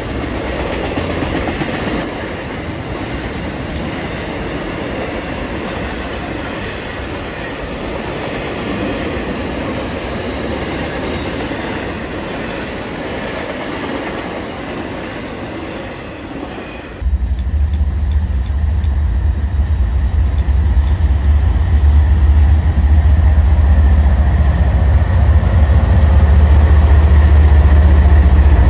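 Intermodal freight train rolling past, a steady rumble with wheel clatter from the cars. About 17 seconds in it cuts to a line of BNSF diesel locomotives passing close, a louder deep engine rumble that builds toward the end.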